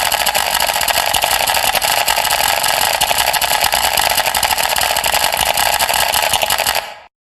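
A loud, steady mechanical buzz with a fast flutter, like a running motor or power tool, cutting off suddenly near the end.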